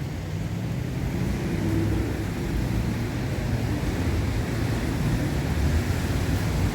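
Steady low rumble of street traffic on a wet street, with a faint hum of vehicle engines and a hiss over it, slowly growing a little louder.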